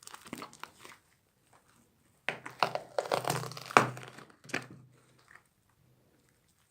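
Watermelon slime being squished, making crackling, crunching sounds. A short burst comes in the first second, then a louder, denser run of crackles from about two to five seconds in.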